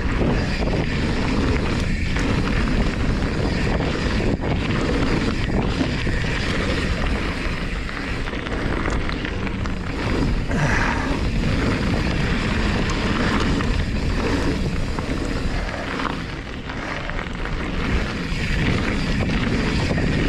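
Mountain bike descending a dirt flow trail at speed: steady wind rumble on the action-camera microphone mixed with tyre noise rolling over packed dirt.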